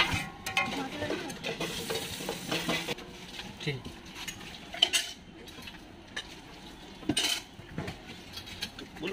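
Egg-topped parathas sizzling on a hot flat griddle, with a couple of short sharp knocks, one about halfway through and another about two seconds later.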